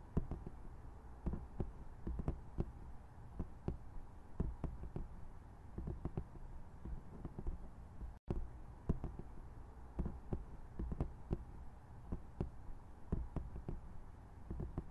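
Rain: a steady hiss with irregular drops tapping close by at random intervals.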